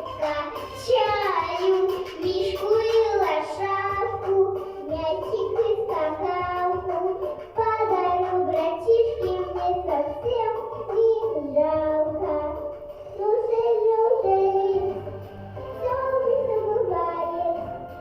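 A young girl singing a children's song with instrumental accompaniment.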